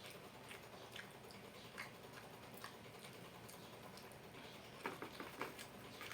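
Faint sounds of eating rice and crispy fried chicken: quiet chewing with scattered soft clicks, several in quick succession about five seconds in.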